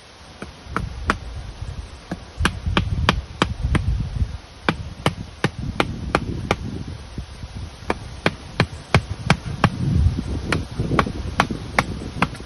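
A series of sharp knocks, about three a second, coming in runs with short pauses, with dull low thumps underneath.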